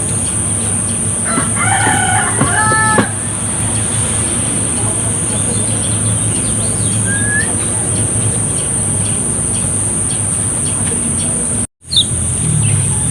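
A rooster crows once, about a second and a half in, over a steady high-pitched whine. A few faint short bird chirps follow, and the sound drops out for a moment near the end.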